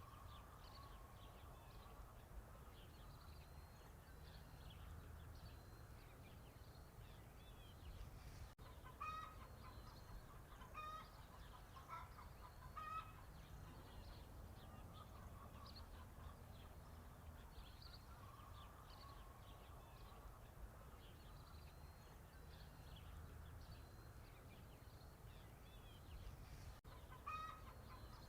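Faint barnyard chickens clucking: scattered short hen calls over a low steady background rumble.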